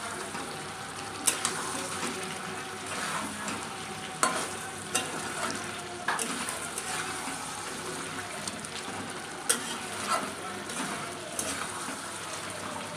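Chicken pieces in thick onion masala sizzling in a pan over a medium-low flame while a spatula stirs them, scraping and knocking against the pan a few times at irregular moments.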